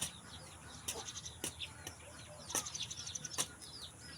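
Many short, high bird chirps and twitters, broken by several sharp clicks.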